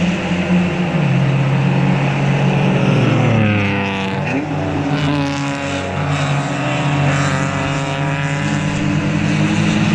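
Several racing cars' engines running at speed past the corner, overlapping. Around four seconds in, one car's engine pitch drops sharply as it goes by.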